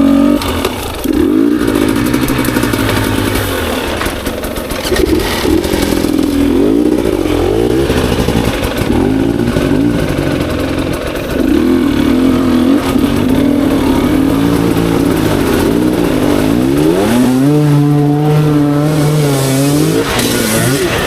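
Two-stroke enduro dirt bike engine being ridden hard, revving up and down through the gears with a rapidly changing pitch.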